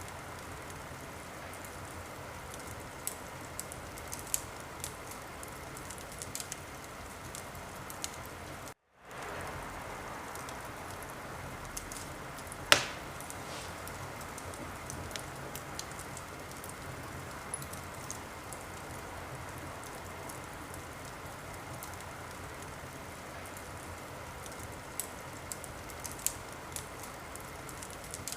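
Wood fire crackling in a fireplace: a steady hiss with scattered small snaps and one loud pop about halfway through. The sound cuts out completely for a moment about a third of the way in.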